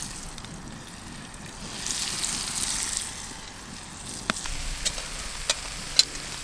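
Goose breast steaks sizzling in butter in a pan over a campfire: a steady frying hiss that swells for a moment. In the second half come several sharp pops.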